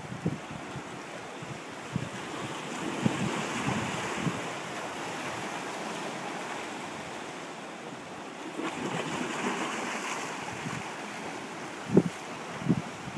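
Ocean surf: waves breaking and washing in, swelling twice, with wind buffeting the microphone in low thumps near the end.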